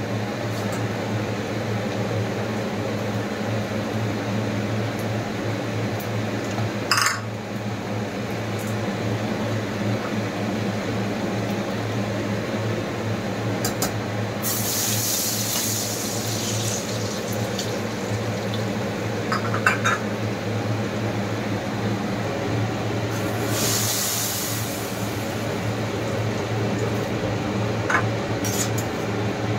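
Sliced shallots and garlic frying in hot oil in a pan, a steady sizzle and bubble over a low hum. It flares into louder hissing twice, about halfway through and again about two-thirds in. There are a few light knocks of utensil on pan.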